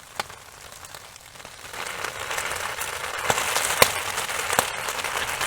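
Heavy rain hissing on a tarp overhead, louder from about two seconds in. Big drips falling from the rock overhang strike the tarp as four sharp taps.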